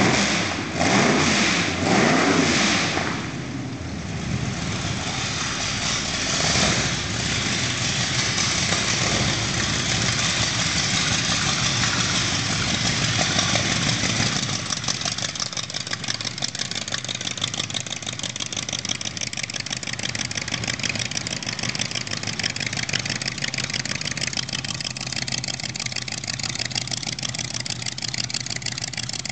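Ford Model A rat rod's engine revved in short blips in the first three seconds and again around six seconds in, then settling into a steady idle.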